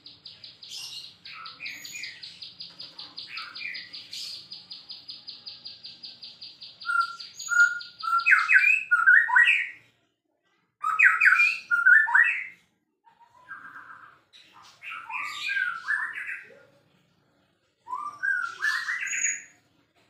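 White-rumped shama (murai batu) singing: a fast, even rattling trill for about the first nine seconds, then loud, varied whistled phrases in four bursts with short pauses between them.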